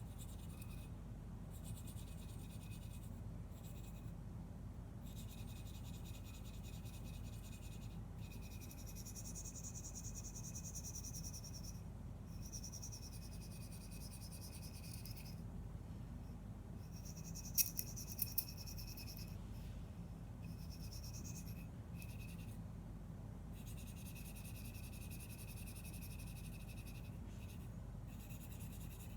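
Knife blade stroked across a sharpening stone: runs of scratchy, hissing strokes broken by short pauses, with three sharp clicks a little past the middle.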